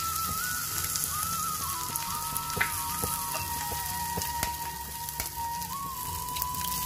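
Ridge gourd peel curry sizzling steadily in a metal pan on the stove as eggs are cracked into it, with a few sharp taps. A thin, wavering high tone runs over it throughout.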